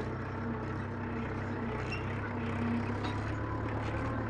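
Mahindra 575 DI tractor's four-cylinder diesel engine running steadily while pulling a cultivator through the soil.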